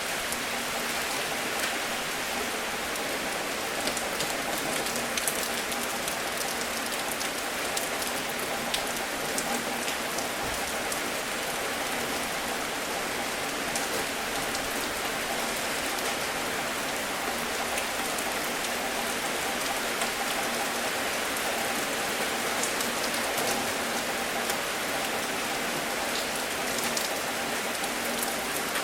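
Steady, even rainfall with many individual drops ticking.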